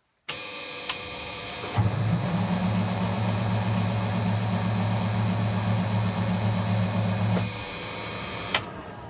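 Starter cranking a cold Detroit Diesel 8V71 two-stroke V8 that does not fire. A whir starts in the first second. About two seconds in, a heavy, even cranking drone sets in and runs for about six seconds. It ends with a click as the starter lets go, and the sound then fades.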